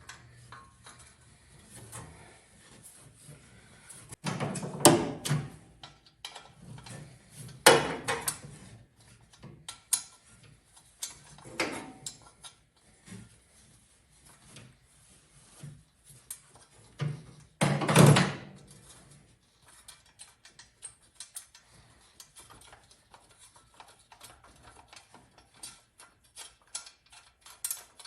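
Hand tools and metal parts clunking and clattering while the engine fan is unbolted, with a few loud knocks about five, eight and eighteen seconds in and light clicking near the end.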